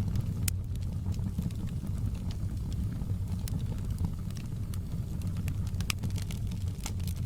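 Fireplace crackling: a steady low rumble of burning logs with scattered sharp pops and crackles, a few louder ones about half a second in and near the end.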